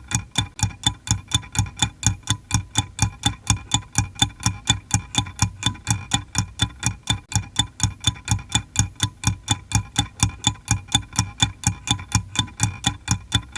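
Clock ticking in a rapid, perfectly even rhythm, each tick a sharp click.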